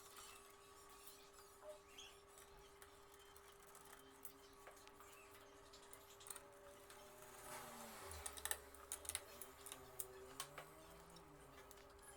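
Faint clicks and taps of monitor parts being handled during reassembly, with a cluster of sharper clicks about eight to nine and a half seconds in, over a steady faint hum.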